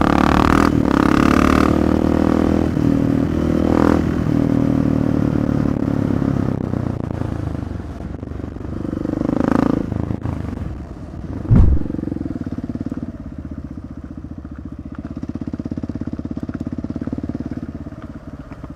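Motorcycle engine running with its pitch shifting as the throttle changes, then settling into a steady, fast idle after about twelve seconds. A single heavy thump sounds about eleven and a half seconds in.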